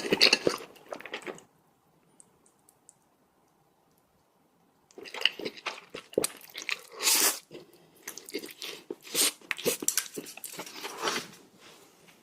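Close-miked eating of spicy noodle soup, with chewing and wet mouth sounds in quick irregular clusters. The eating stops briefly after about a second and a half and starts again about five seconds in.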